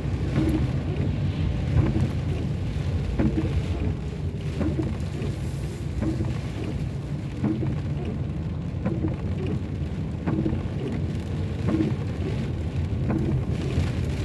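Car cabin in heavy rain while driving: steady engine and tyre rumble under the hiss of rain on the car, with the windscreen wipers sweeping and knocking about every second and a half.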